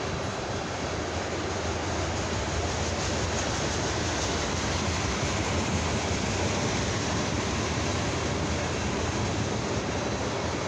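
Norfolk Southern ethanol unit train's tank cars rolling past over a grade crossing: a steady noise of wheels on rail that swells slightly and holds.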